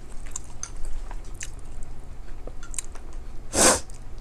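A person chewing a mouthful of food, with soft wet mouth clicks and smacks, and one short loud breath about three and a half seconds in.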